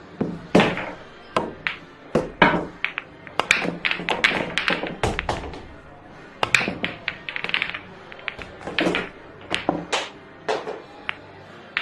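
Billiard balls clacking: a rapid, irregular run of sharp clicks and knocks from balls striking each other and the cue.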